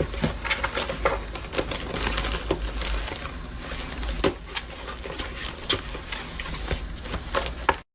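Irregular light taps and clicks with rustling, in a small, echoing room; the sound cuts off suddenly near the end.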